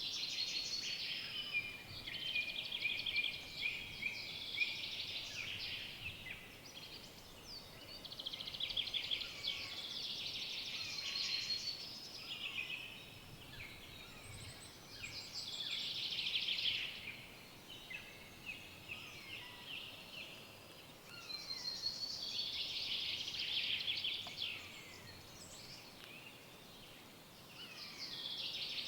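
Forest birds singing: bright, high song phrases a few seconds long, repeated with short pauses between, over a faint steady hiss.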